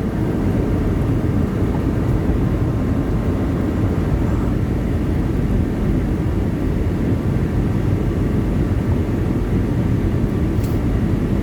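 Steady engine and road rumble inside the cab of a semi truck driving at highway speed.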